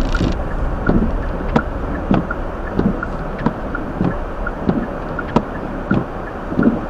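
Steady road and engine noise inside a Hyundai Elantra's cabin on a snowy road, with the turn signal ticking evenly a little under twice a second as the car slows to turn left.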